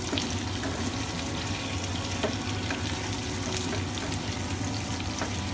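Beef trimmings and chilli sambal sizzling steadily in oil in a stainless steel pan, stirred with a plastic spatula that now and then scrapes or taps the pan.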